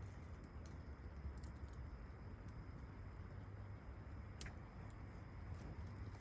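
Faint steady low background noise with scattered small clicks, and one sharper tick about four seconds in.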